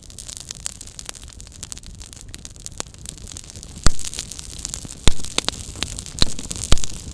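Small campfire burning with a steady hiss and frequent small crackles, then several loud sharp pops from about four seconds in.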